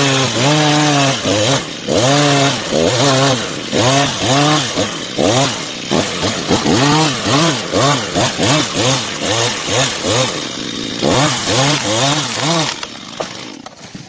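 Chainsaw engine revving up and down over and over, its pitch rising and falling about twice a second and quickening after the middle, then dying away near the end.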